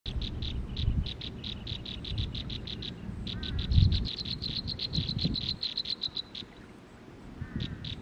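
Small songbirds at a nest of nestlings being fed, giving a rapid string of short high chirps, several a second. The chirps pause briefly about three seconds in and stop a little after six seconds, with low rumbling underneath, loudest near four seconds.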